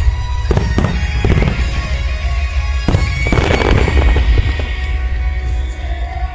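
Aerial fireworks shells bursting over music played for a music-synchronised fireworks show: several sharp bangs in the first three seconds, then a dense crackle about three and a half seconds in.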